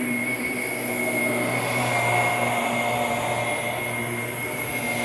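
Shark Navigator Lift-Away Deluxe upright vacuum running steadily, a high whine over a low hum.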